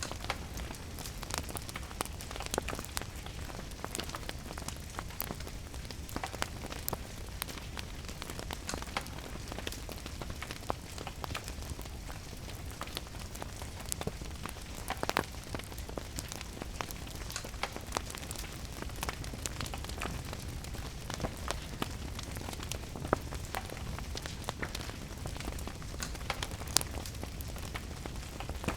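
Wood fire crackling and popping in a fireplace, irregular sharp pops over the steady hiss of rain and a low rumble underneath.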